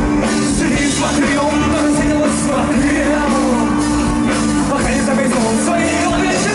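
Live rock band playing a song with singing. A steady held note runs under it and stops near the end.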